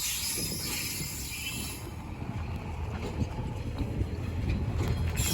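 A railway train running with a low rumble, and a loud hiss that fades about two seconds in and starts again near the end.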